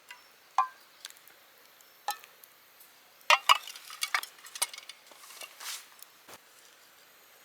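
Scattered clinks and taps of a metal utensil against metal camping cookware, a few of them ringing briefly, with a cluster of louder clinks about three seconds in.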